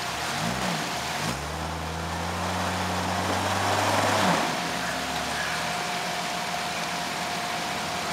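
Jeep Cherokee XJ engine blipped up twice, then held at steady revs under load for about three seconds as the Jeep struggles up a steep muddy bank. It drops back about four seconds in and settles to a lower, steady run.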